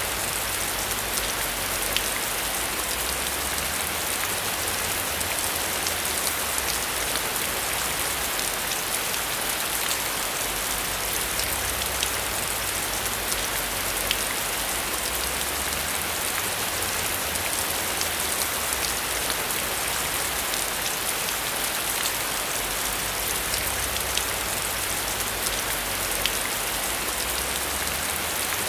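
Steady heavy rain on a metal roof: a continuous hiss with many sharp drop ticks scattered through it and a low rumble underneath.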